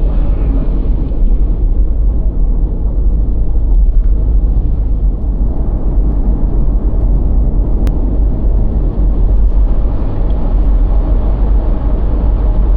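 Steady, loud low rumbling noise, with a single faint click about eight seconds in.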